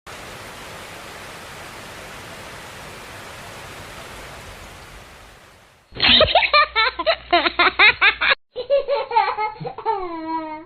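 A steady hiss fades out over the first five seconds or so. It is followed by quick, giggling laughter whose pitch bounces up and down, broken once briefly and ending in a few long falling notes.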